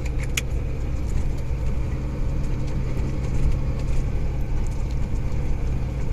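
Cab interior of a DAF 95 truck tractor driving slowly: the diesel engine and road noise make a steady low drone, with a single sharp click about half a second in.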